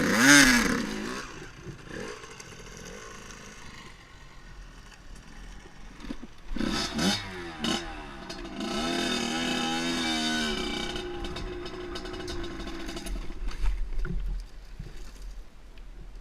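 Dirt bike engine revving up and down in several bursts, with a longer rev about midway, amid clattering and wind noise.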